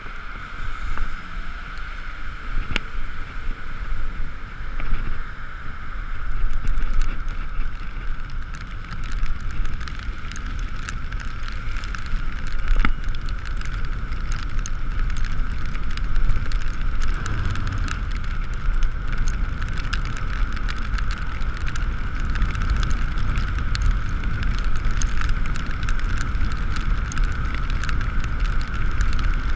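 Riding noise from an Ekoway ML5000 electric scooter in the rain, heard through a GoPro housing: steady wind and road rumble with a steady mid-pitched whine. Dense fine ticking sets in about six seconds in.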